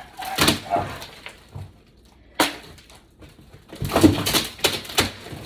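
Irregular heavy knocks and cracking of wood as damaged floor boards are broken up or stomped: one about half a second in, another about two and a half seconds in, then a quick cluster near the end.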